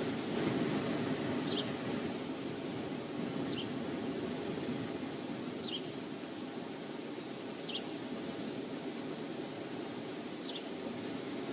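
Wind rushing steadily over the microphone, with a small bird giving a short, high, falling call five times, about every two seconds.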